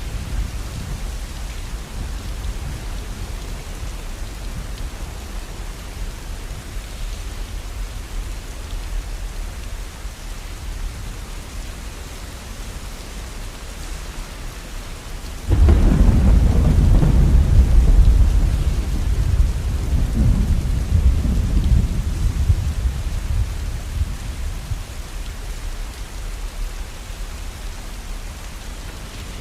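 Steady rain, with a long roll of thunder that breaks in suddenly about halfway through, stays loud for a few seconds and then rumbles away.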